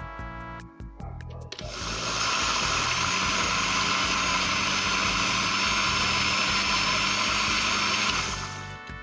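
Electric blender running steadily for about six seconds, starting about two seconds in and stopping near the end, most likely blending the chipotle sauce. Background music plays before it starts.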